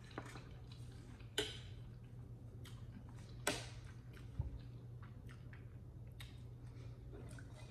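Quiet chewing of a mouthful of noodles over a steady low hum. There are two sharp clicks, about a second and a half and three and a half seconds in, followed by a dull thud.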